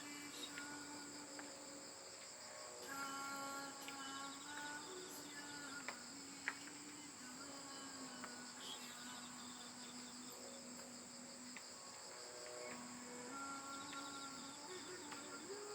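Steady chorus of crickets, an unbroken high trill, under soft slow music of long held notes that change pitch every few seconds.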